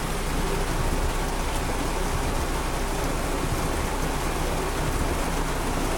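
Heavy rain pouring down steadily on the car, heard from inside the cabin.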